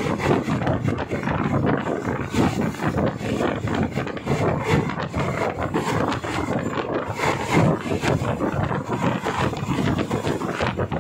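Passenger train running, heard from on board: a continuous rumble and rattle of the wheels on the track, with many short knocks, mixed with rushing wind.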